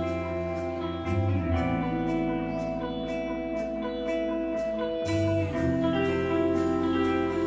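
Post-rock band playing live: held electric guitar notes over a bass that moves to a new note about a second in and again near five seconds, with a cymbal ticking about twice a second.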